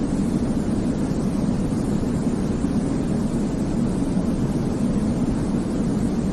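Continuous sleep noise for babies: a steady, deep rushing noise, heaviest in the low range, with no changes or events.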